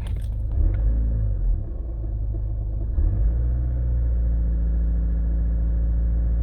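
Skoda Octavia 1.6 TDI diesel engine running, heard from inside the cabin as a low rumble. The sound is uneven for the first three seconds, then settles into a steady low hum.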